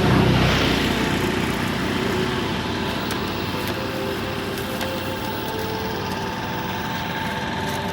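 Motor vehicle engine running close by, loudest about half a second in and then easing into a steady traffic hum.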